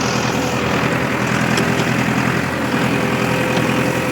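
A vehicle's engine running steadily at an even speed.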